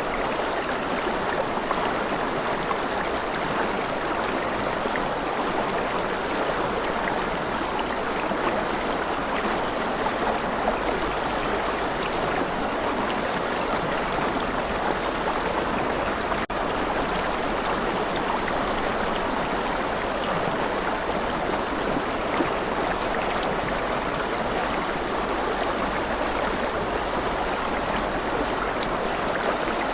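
Rushing river water flowing steadily, an even rush of running water. There is a split-second break in the sound about halfway through.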